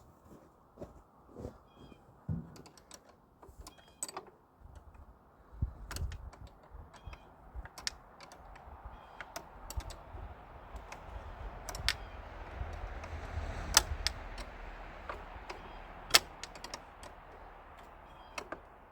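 Scattered light clicks and taps of a wrench and metal fittings as a battery disconnect switch is fastened in place, with a soft rushing noise and low rumble through the middle.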